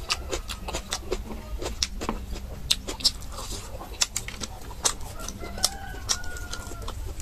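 Close-up eating sounds of gnawing and chewing meaty bones: a quick, irregular run of wet mouth clicks, smacks and crunches. A faint wavering call can be heard in the background about five and a half seconds in.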